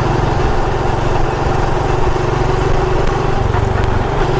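Motorcycle engine running steadily while riding, its low, rapid firing drone under a steady rush of wind and road noise.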